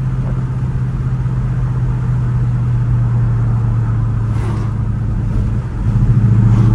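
S550 Mustang GT's Coyote 5.0 V8 with an SR Performance muffler-delete axle-back exhaust droning steadily inside the cabin while cruising at low rpm in sixth gear. This is the low-rpm drone the exhaust brings below about 2000 rpm. Near the end it briefly dips, then comes back a step louder.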